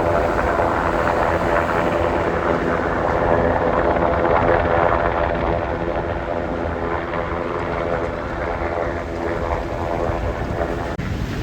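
Helicopter flying: a steady rotor and engine drone with a layered whine, dipping briefly near the end.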